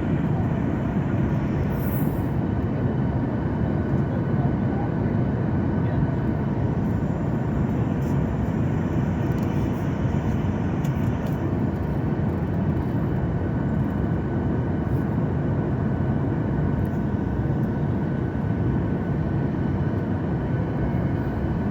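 Steady cabin noise inside an Akasa Air Boeing 737 MAX airliner in flight: a constant deep roar of engines and airflow, with faint steady tones above it.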